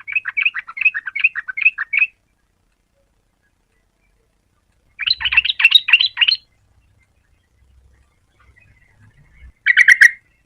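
Yellow-vented bulbul singing: three phrases of quick, bubbling notes, the first about two seconds long, the second about a second and a half from halfway in, and a short one near the end.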